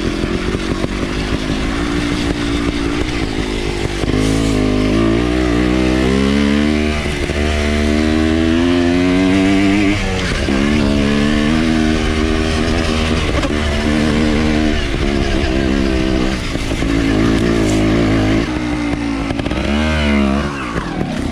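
Trials dirt bike engine running under the rider, revving up and dropping back again and again as the throttle is opened and closed, with a brief drop and pick-up near the end.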